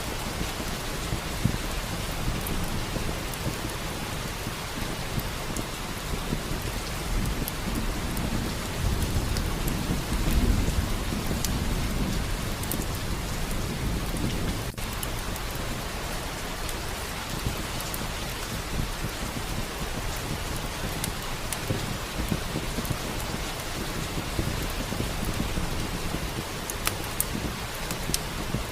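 Steady heavy rain, with a low rumble of thunder swelling about eight to twelve seconds in. Scattered small sharp ticks sit on top of the rain.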